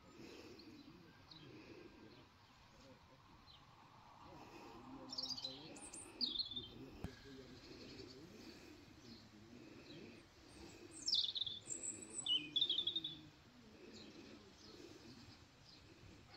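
Small birds chirping, with two short runs of high, falling song notes, one about five seconds in and one just past ten seconds, over a faint low background rumble.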